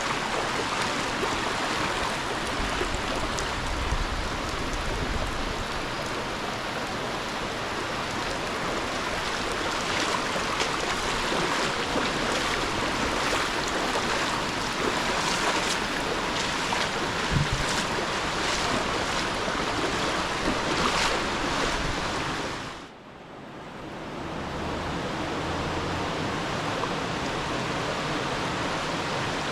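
Steady rush of river water flowing over rocks. About three-quarters of the way through it drops away sharply and then fades back in.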